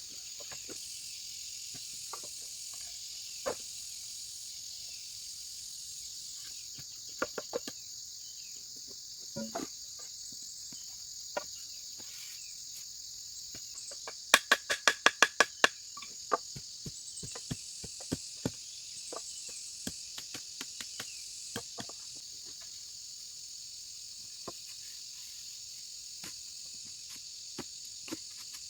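Steady high-pitched insect chirring, with scattered sharp knocks and a quick run of about eight loud strikes about halfway through.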